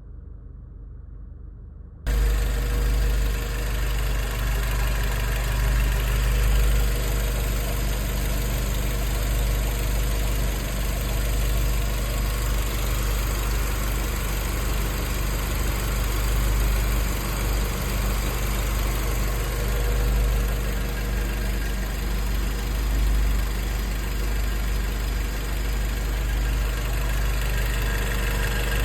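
Audi 1.6 ALZ inline-four petrol engine idling steadily with a deep, even hum. It follows a faint, muffled stretch that cuts suddenly to the engine about two seconds in.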